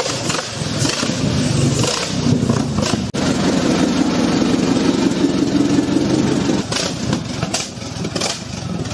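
The Fiat S76's huge four-cylinder engine running through its open exhausts, a deep steady rumble. Several sharp cracks come near the end.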